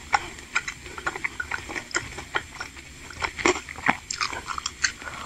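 Close-miked chewing of chewy tapioca meatballs (bakso aci): irregular wet mouth clicks and smacks.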